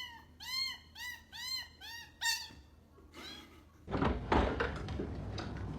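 A kitten mewing: a quick run of about five short, high mews, each rising and falling in pitch. Then, about four seconds in, a louder rough noise takes over.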